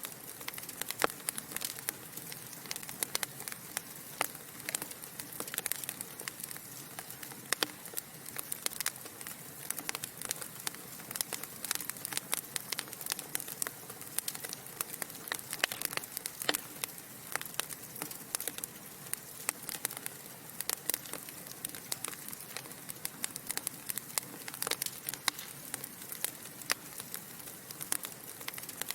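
Log fire crackling in a fireplace: a steady hiss with many small, irregular pops and snaps.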